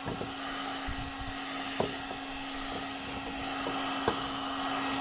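Electric heat gun running steadily, its fan blowing with a constant hum, as it heats a plastic bumper cover to soften it. Two light clicks or taps break in, about two and four seconds in.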